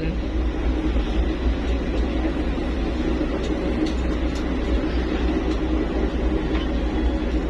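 Fast passenger boat's engines running at steady speed, heard from inside the cabin as a constant low drone with hull and water noise over it.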